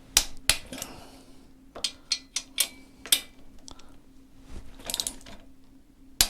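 Ratcheting torque wrench on the cylinder head nuts of a Gilera 124 engine: about ten sharp, irregularly spaced metallic clicks as the head is torqued down.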